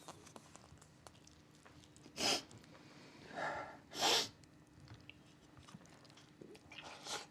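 A person sniffing sharply three times, about two seconds in, four seconds in and near the end, with a short choked whimper between the first two sniffs, as from someone holding back tears.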